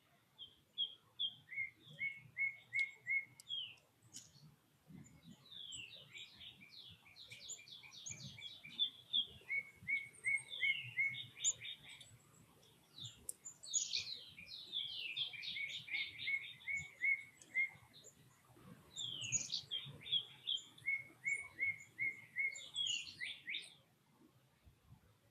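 A songbird singing four bouts of quick, repeated whistled notes, each bout sliding down and then running into a string of short, lower notes, with brief pauses between bouts.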